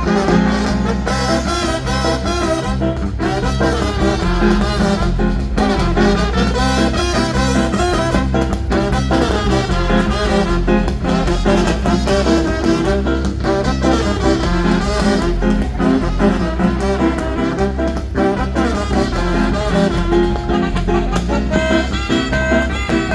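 Brass band playing lively dance music with a steady beat.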